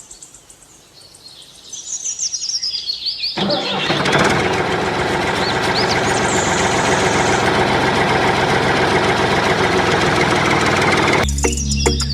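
Birds chirping, then about three seconds in an engine starts up and runs steadily until shortly before the end, in the manner of a tractor engine.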